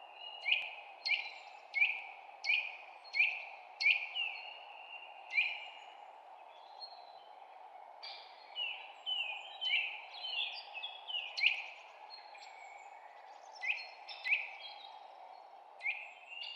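Songbirds chirping: a run of short, sharp, repeated down-slurred chirps, about one every 0.7 seconds, then a busier tumble of varied chirps halfway through and a few more near the end, over a steady background hiss.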